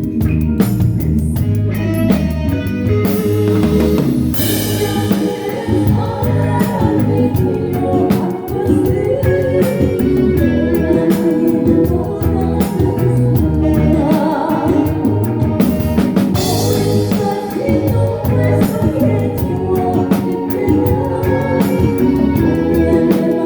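A seven-piece live band playing a song with a singer: drum kit, bass and guitar under the vocal line, with cymbal crashes about four seconds in and again near the middle.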